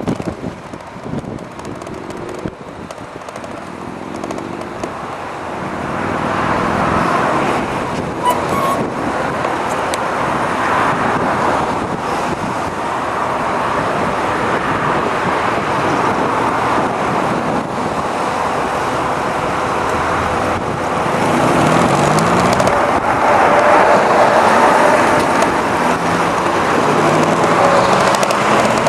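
Steady rush of wind and road noise while riding an e-bike with a front hub motor, growing louder about six seconds in. A few short rising pitched sweeps come through, from the motor or from passing traffic.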